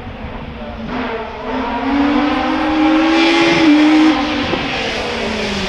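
Hillclimb race car engine accelerating hard, its note rising steadily, then dropping abruptly about four seconds in before running on at a lower pitch.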